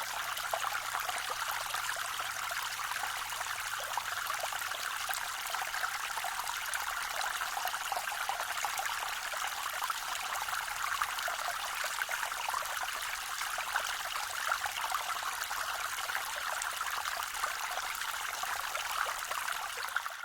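Small forest waterfall on a creek, water spilling and splashing steadily, a bright trickling rush.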